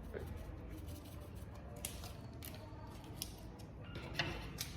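Scattered crisp clicks and crackles, faint and irregular, from panipuri shells and their fillings being handled and spooned together.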